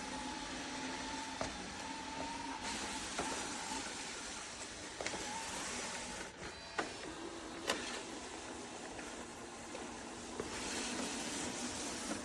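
Narwal Freo Z10 robot vacuum-mop's motors running with a steady whir and a faint wavering whine. A few sharp clicks or knocks sound over it.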